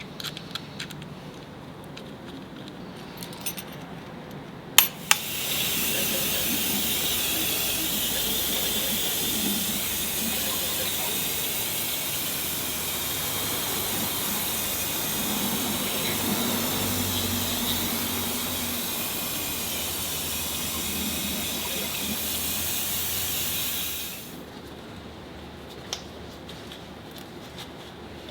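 A steady, loud hiss of air or spray that starts just after a sharp click about five seconds in and runs for nearly twenty seconds before cutting off. Small clicks and taps come before and after it.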